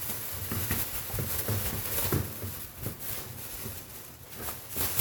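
Plastic garbage bag rustling and crinkling as a bird cage tray is worked into it, with irregular light knocks of the tray.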